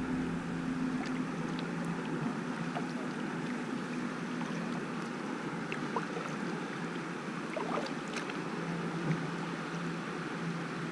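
River water running and lapping around a kayak moving with the current, with scattered small ticks and a faint steady low hum underneath.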